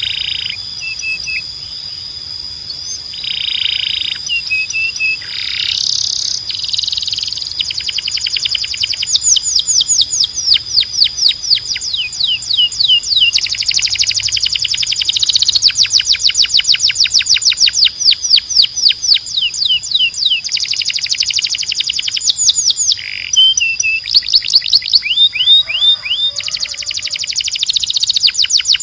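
Domestic canary singing: phrases of rapid trills, each a fast run of repeated down-slurred notes, changing speed from phrase to phrase, over a steady high-pitched tone.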